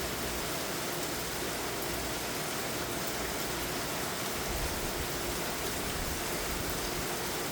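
Heavy rain pouring down steadily, a dense even hiss of rain falling on surfaces.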